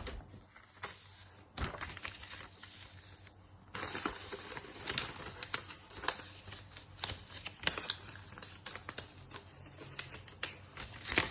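A sheet of paper being folded and creased by hand into a paper aeroplane: irregular crinkling and rustling with many sharp little taps and clicks as the folds are pressed down.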